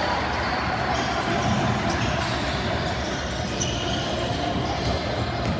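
Basketball game in a gym: the ball bouncing on the court over a steady hubbub of players and spectators.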